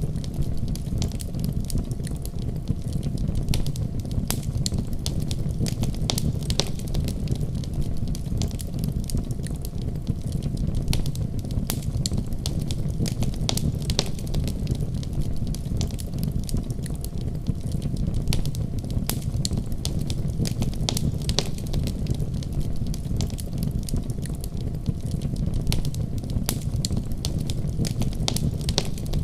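Wood fire burning in a fireplace, crackling with irregular pops and snaps over a steady low rumble of the flames.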